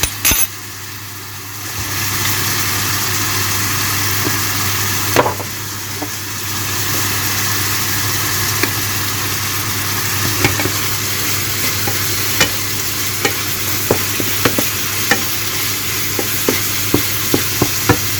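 Chicken breast pieces sizzling in a frying pan of olive oil, a steady hiss. A utensil knocks and taps against the pan now and then, more often in the second half.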